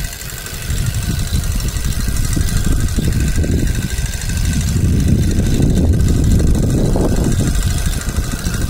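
Low, uneven rumble of wind buffeting a phone's microphone while the person holding it moves along, growing heavier about three seconds in.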